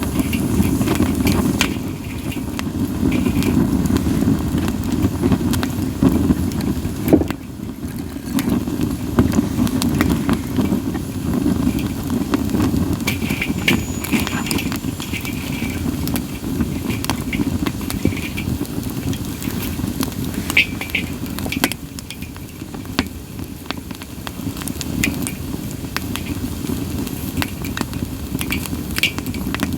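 Campfire of split sawtooth oak (kunugi) logs burning, with a steady low rush of flame and scattered sharp crackles and pops, one louder snap about seven seconds in.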